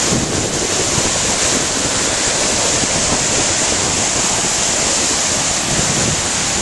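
A waterfall on a hill stream, water rushing loudly and steadily close by.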